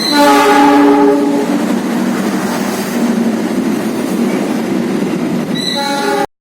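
A train horn sounds for about a second and a half, then the train runs past with a steady rumble and wheel clatter. A second short horn blast comes near the end, and then the sound cuts off abruptly.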